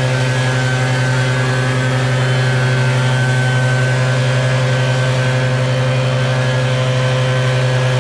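Gas-powered leaf blower running steadily, used to blow snow.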